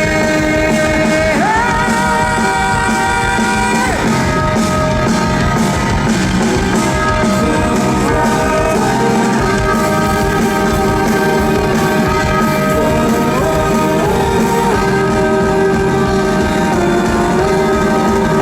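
Live rock band playing an instrumental passage: drums and bass under a lead line of long held notes that slide up or down between pitches.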